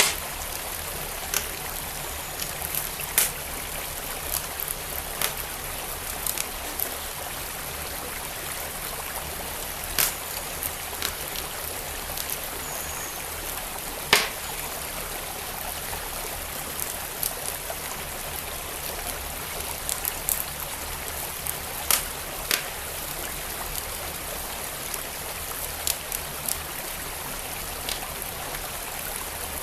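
Wood fire crackling, with sharp pops at irregular intervals a few seconds apart, over the steady rush of a flowing creek.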